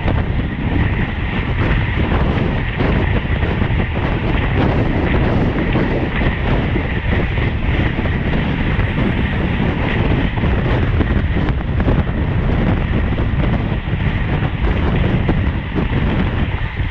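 Wind rushing over the microphone of a camera on a road bike ridden at race speed, with road noise: a loud, steady rush.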